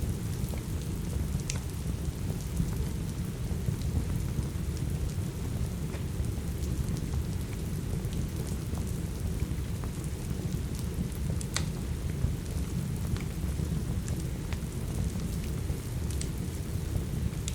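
Steady rain with a deep rumble underneath and scattered sharp crackles and pops, as from a fireplace.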